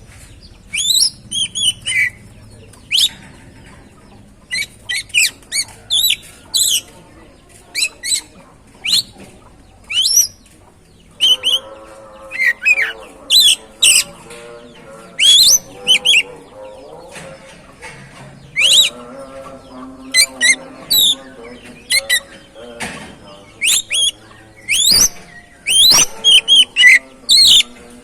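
Oriental magpie-robin (kacer) singing a lure song: short, sharp whistled and chirping notes, many sweeping up or down, in quick clusters of two or three with short gaps. From about eleven seconds in a lower, steadier tonal sound runs underneath.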